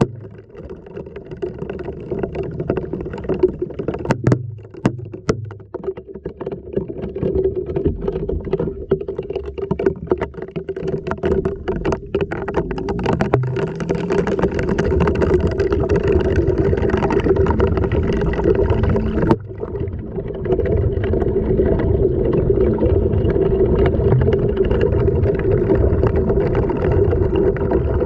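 LG washing machine running, heard from inside its drum: water sloshing over a steady motor hum, with scattered knocks of the load against the drum. It grows louder about halfway through.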